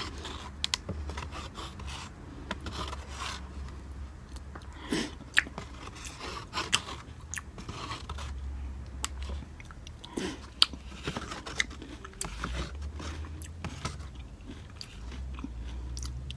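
Close-up chewing and mouth sounds of a person eating instant noodles from a cup with a fork, with many scattered sharp clicks.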